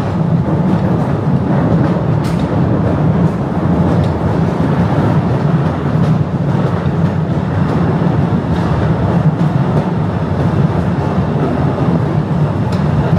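Postojna Cave tourist train running steadily along its track: a constant rumble of wheels on rail, with a few faint clicks now and then.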